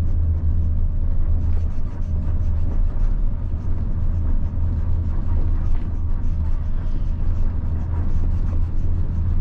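A 1990 Mitsubishi Fuso bus's 7.5-litre diesel engine running steadily as the bus drives along, a low drone with road noise and light rattles.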